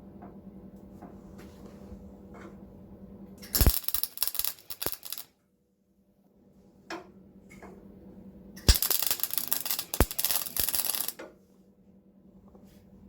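Welding on a Rover P6's steel sill panel: two bursts of a welder, about two seconds each, a few seconds apart, over a steady low hum.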